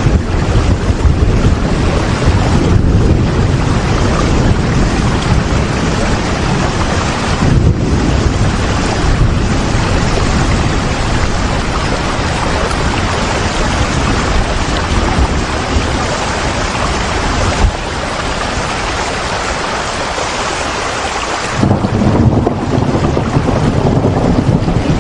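Steady rain, a dense even hiss with a low rumble beneath it that drops away about 18 seconds in and returns about four seconds later.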